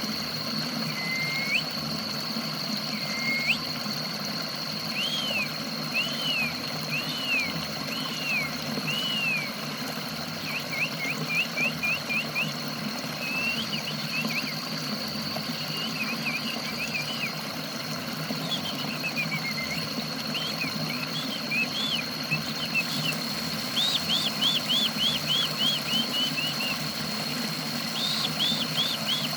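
A small songbird singing phrases of repeated arched chirps, some in fast runs, over a steady low rush that fits running water, with a thin steady high whine behind. It is a water-therapy sound track played to set a silent cage bird singing.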